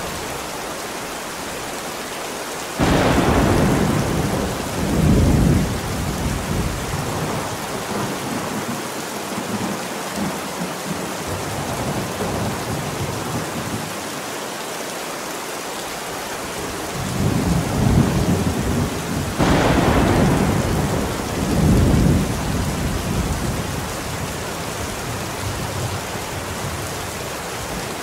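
Steady rain with two rolls of thunder. The first breaks in suddenly about three seconds in and rumbles for a few seconds. The second builds past the middle and rolls on in several surges before fading back into the rain.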